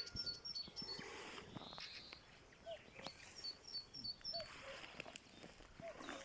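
Faint songbird song outdoors: a run of quick, high, repeated chirps at the start and again about three seconds in, with a few soft lower calls and light clicks in between.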